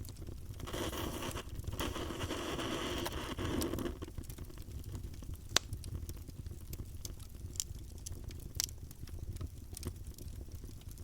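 Campfire burning, with a low steady rumble and scattered sharp crackles and pops of burning wood; a brief rush of hissing noise lasts for about three seconds near the start, and the loudest pop comes about five and a half seconds in.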